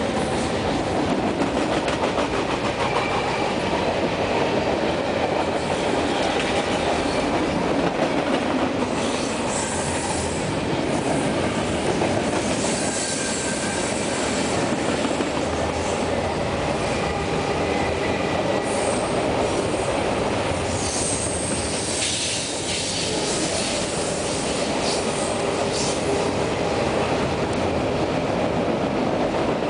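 CN freight cars rolling past on the rails, a steady wheel-on-rail noise. High wheel squeals rise above it now and then.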